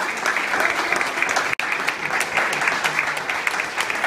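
Audience applauding, many hands clapping steadily, with a momentary break in the sound a little before halfway.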